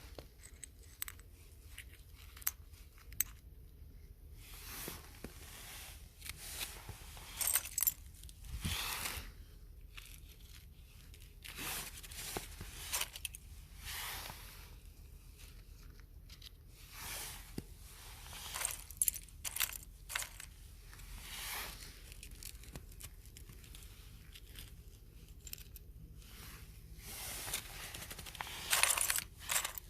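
ASMR trigger sounds made by handling objects close to the microphone: irregular short scratchy rustles and sharp clicks, each a second or less, with brief pauses between them.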